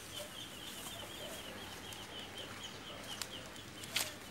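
A small bird chirping in a fast, even series of short high notes, about six a second, with one short sharp noise near the end.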